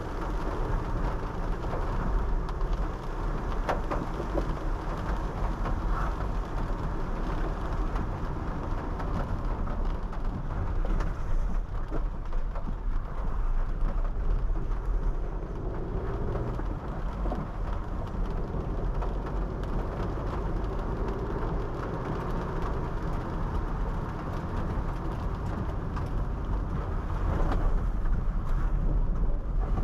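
Honda City fifth-generation sedan driving on a wet road in the rain: a steady wash of rain and wet-tyre noise over low road noise.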